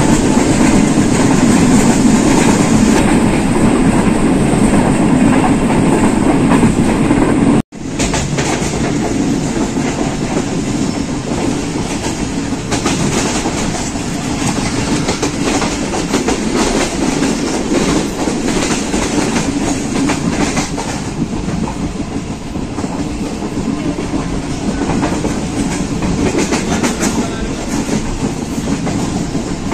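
Passenger train running along the line, heard from a carriage window: a steady rumble and rush with the wheels clicking over rail joints. The sound drops out for an instant about eight seconds in, then carries on a little quieter.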